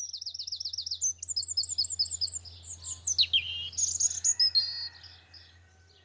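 Songbird singing: fast runs of high, repeated chirps, then a falling sweep and warbling notes, fading out about five seconds in.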